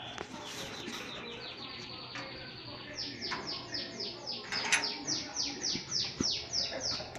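A songbird singing: a fast, even trill of short notes, then a slower series of falling whistled notes, about four a second. A brief noise stands out a little over halfway through.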